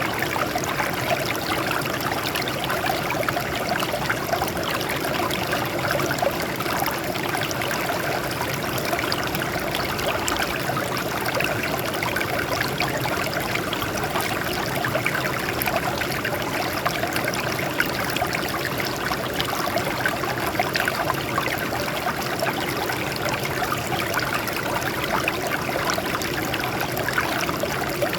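Water flowing and trickling over rocks, a steady splashing rush with no breaks.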